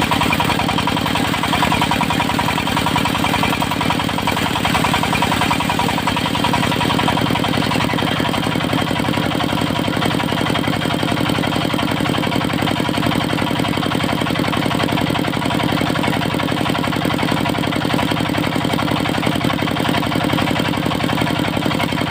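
Diesel engine of a portable circular sawmill running steadily with a fast, even knock; a low hum under it drops out about six seconds in.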